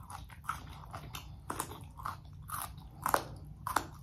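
Mouth chewing and crunching broccolini stems: a string of irregular crisp crunches, the loudest two about three seconds in.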